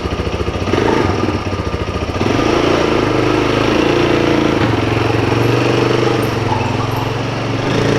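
Side-by-side utility vehicle engine running with a lumpy, pulsing beat, then picking up about two seconds in and running steadily at higher revs as the machine drives off.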